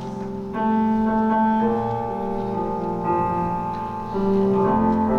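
Background music on a keyboard: slow, held chords that change every second or so.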